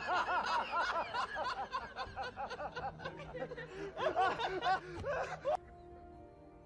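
Person laughing in quick, bouncing bursts, which cut off suddenly about five and a half seconds in. A faint steady tone follows.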